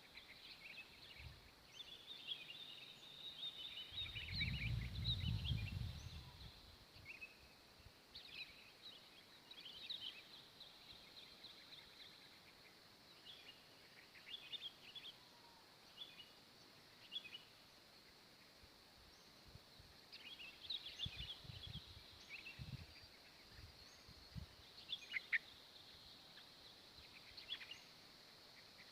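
Faint small wild birds chirping in short, scattered calls. There is a low rumble about four seconds in, and several short low thumps past the middle.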